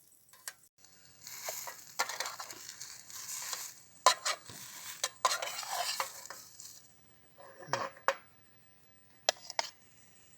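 Cooking in a pan: a utensil stirring and clinking against the metal, with two stretches of sizzling hiss and a few separate sharp clinks near the end.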